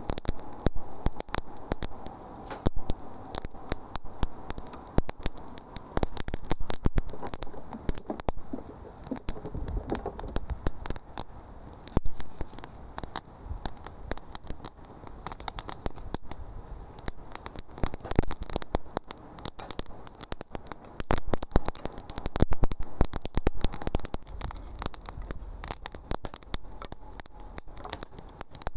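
Rapid, irregular crackling and popping at a wood-fire cooking setup, many sharp pops a second with brief lulls.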